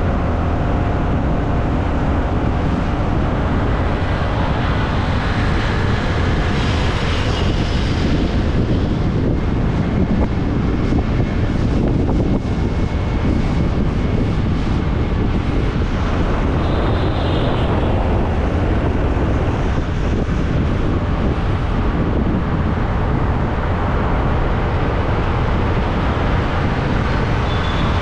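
Wind buffeting the microphone, mixed with engine and road noise from a motorbike being ridden at a steady pace.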